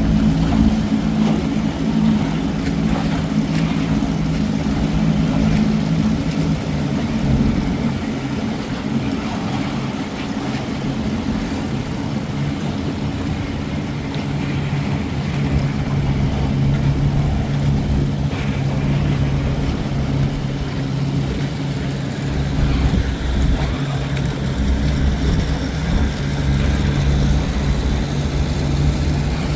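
Johnson 20 hp two-cylinder two-stroke outboard motor running steadily, pushing the boat along. Its pitch drops a little about seven seconds in.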